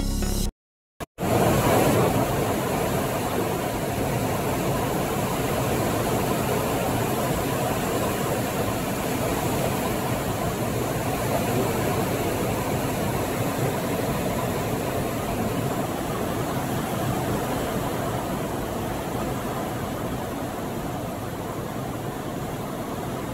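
Steady, even noise of a car driving through heavy rain, mixing road and rain noise, starting after a brief silent gap about a second in.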